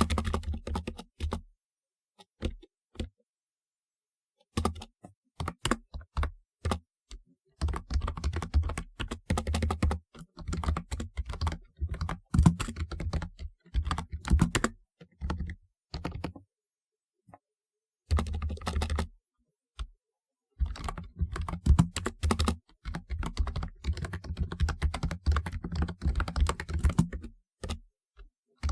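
Typing on a typewriter-style mechanical keyboard: bursts of fast key clicks, each with a low thud, in runs several seconds long broken by short pauses.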